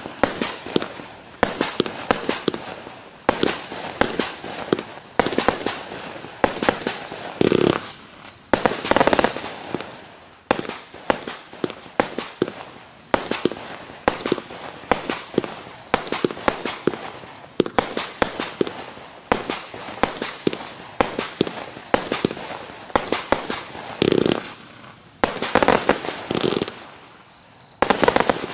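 A 268-shot, 20 mm compact fireworks cake firing in rapid succession: sharp launch thumps and aerial bangs several per second, with short swells of crackle mixed in.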